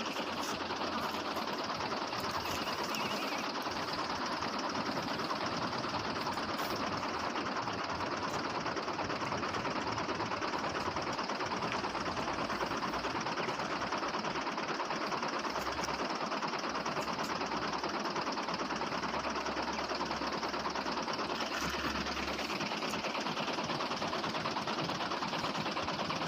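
Small motor of a DIY mini tractor running steadily, a continuous whirring rattle at an even level.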